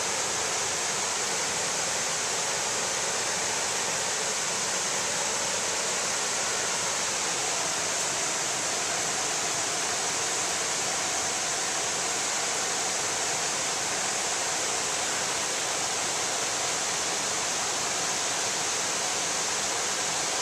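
Small waterfall on a mountain trout stream, water falling and rushing with a steady, even roar.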